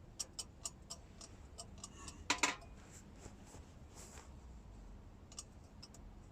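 Camping gear being handled: a string of sharp clicks and light knocks, with a brief, louder clattering rattle about two and a half seconds in.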